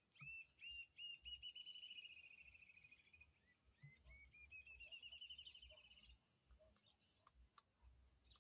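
A sabiá thrush calling: two runs of quick upward-hooked notes that speed up into a fast trill. The first run starts right away and the second about three and a half seconds in.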